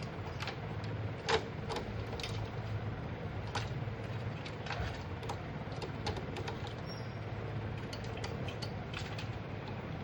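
Scattered light clicks and taps over a steady low hum, with one sharper click about a second and a half in.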